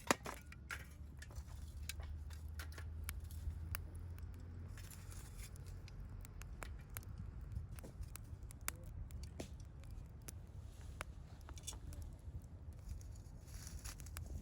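Wood fire crackling, with scattered sharp pops and snaps, the loudest right at the start, over a steady low rumble.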